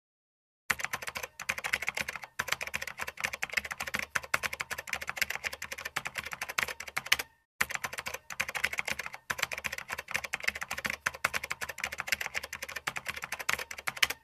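Fast typing on a computer keyboard: a dense run of key clicks that starts about a second in, breaks off briefly about halfway, then resumes and stops abruptly.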